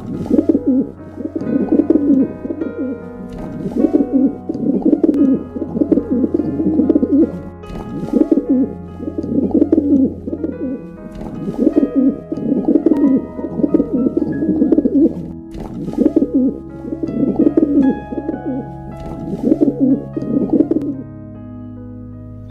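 Pigeon cooing in repeated low, warbling phrases over soft background music; the cooing stops near the end.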